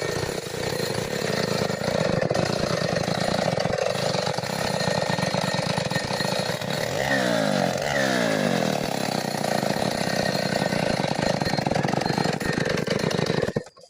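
Stihl 070 two-stroke chainsaw running under load, cutting wood. Its pitch falls twice about halfway through, and the sound cuts off abruptly near the end.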